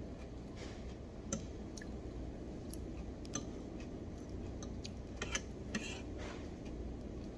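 A few light, scattered clinks of dishes and cutlery over a steady low room hum.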